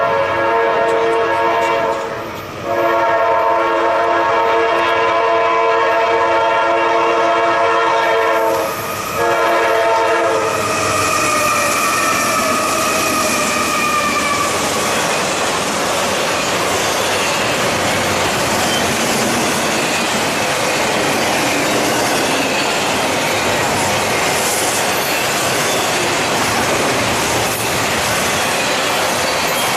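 A diesel locomotive's multi-note air horn sounds long blasts, broken twice, then drops in pitch as the locomotive passes. The train then rolls by with steady wheel noise and clacking over the rail joints.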